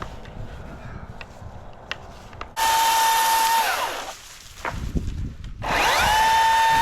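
Chainsaw running at full speed in two bursts of about a second each. Each starts abruptly at a steady pitch and winds down with a falling whine when the trigger is released.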